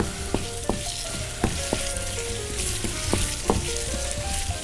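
Sliced sausage and onion sizzling in oil in a frying pan, stirred with a wooden spatula that clicks and scrapes against the pan a dozen or so times at an irregular pace.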